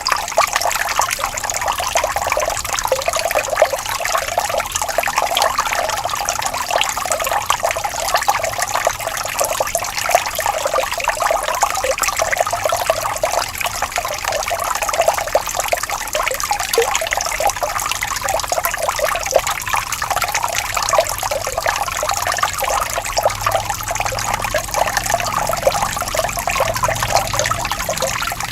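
Water trickling and babbling steadily in a small stream, a continuous bright splashing without pause.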